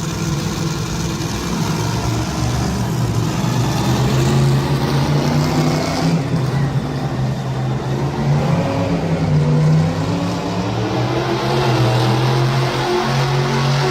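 Monster truck engine running loud and steady, its pitch wavering slightly up and down.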